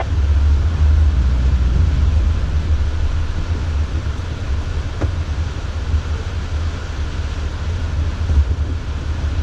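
Steady low rumble of a Jeep's engine heard from inside the cab, with a single faint click about five seconds in.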